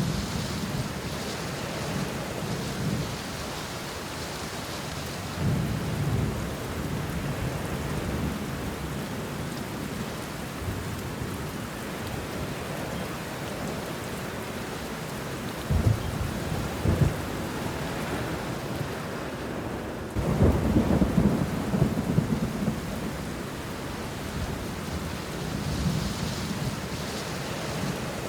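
Steady rain falling on banana leaves and bushes, with thunder rumbling several times. The longest and loudest peal comes about two-thirds of the way through, after two short sharp cracks.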